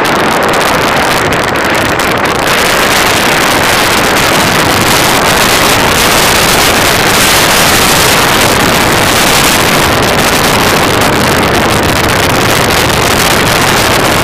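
Helicopter running close by: a loud, steady rush of rotor and engine noise, with wind buffeting the microphone.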